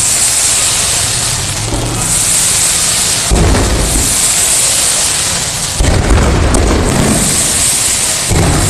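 Fireworks going off: a continuous dense crackle, with three deep booms that set in about three, six and eight seconds in.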